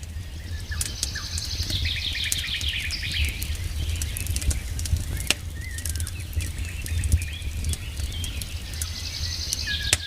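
Campfire crackling with scattered sharp pops, while a songbird sings a fast descending trill twice, once about a second in and again near the end, among other bird chirps. A steady low rumble runs underneath.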